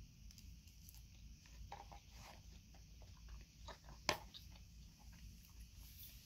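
Faint close-up chewing of a mouthful of salad: soft scattered crunches and crackles, with one sharp click about four seconds in.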